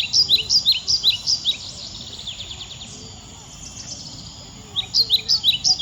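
A bird giving rapid runs of sharp chirps, about five or six a second. One run ends about a second and a half in and the next starts near the end, over steady outdoor background noise.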